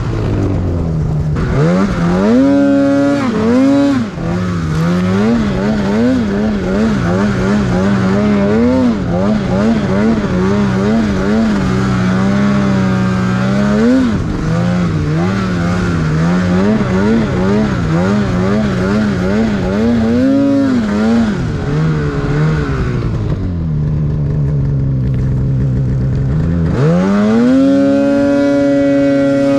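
Snowmobile engine revving up and down as it rides through powder, its pitch rising and falling again and again. Near the end it settles low, then climbs and holds at high revs.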